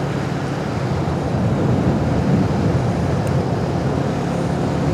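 Motorcycle engine idling steadily under a wash of road traffic noise.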